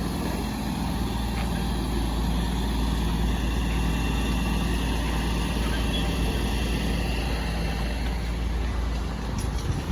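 A car running along the road, heard from inside the cabin: a steady low rumble of engine and road noise.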